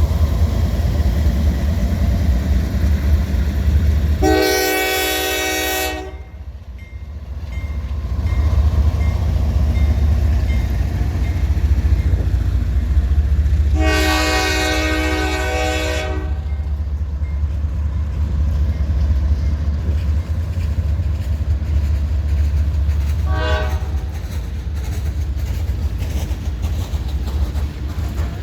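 Norfolk Southern freight locomotive's multi-chime air horn sounding the grade-crossing signal: two long blasts, a short one, and a fourth long blast just beginning at the end. Under it runs the steady low rumble of the train.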